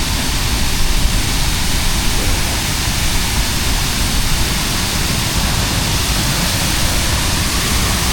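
The Jagala River rushing steadily through its canyon: a loud, even hiss of water, uneven low down.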